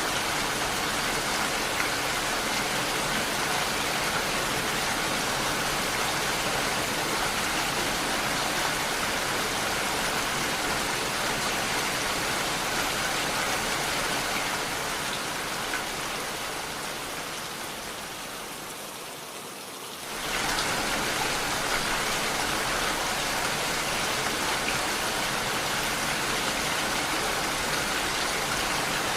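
Steady rain falling. About two-thirds of the way through the rain fades down over several seconds, then cuts back in abruptly at full level, as at a splice in a looped recording.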